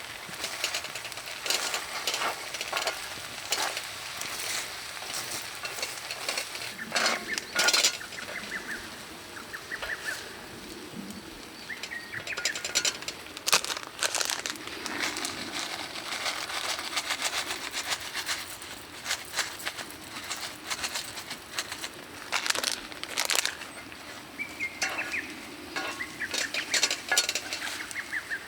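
Monjayaki sizzling and crackling on a hot plate over a wood fire, with irregular sharp clicks and scrapes, the loudest a little after a quarter of the way in, around the middle and near three-quarters through. Birds chirp briefly a few times in the background.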